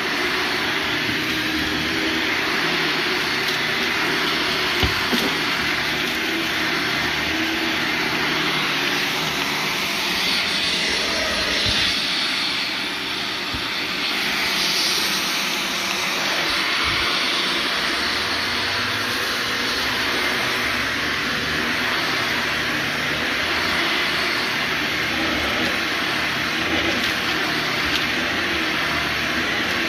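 Vacuum cleaner running steadily, pulled over carpet.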